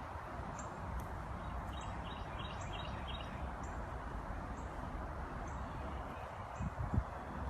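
Outdoor woodland ambience: a steady background rush with small birds chirping, short high calls repeating, including a quick run of chirps a couple of seconds in. A couple of low thumps near the end.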